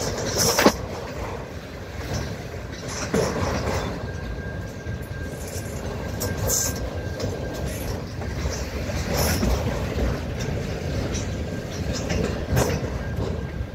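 Freight train of autorack cars rolling past, steel wheels rumbling steadily on the rails, with a few sharp clacks spaced several seconds apart as wheel sets cross rail joints.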